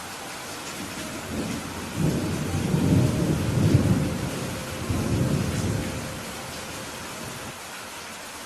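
Steady rain hiss with a roll of thunder: a low rumble builds about a second in, swells in several waves to its loudest near the middle, and dies away a couple of seconds before the end.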